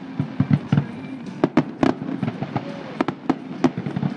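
Fireworks display: aerial shells bursting, about a dozen sharp bangs irregularly spaced over a low rumble.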